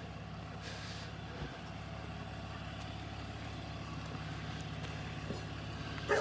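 A vehicle engine idling steadily, a low even hum, with a small knock about one and a half seconds in.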